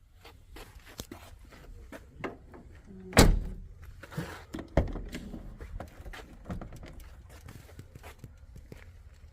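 A car door shutting with a loud thunk about three seconds in and a second sharper knock just under two seconds later, amid scattered clicks and knocks of the vehicle being handled.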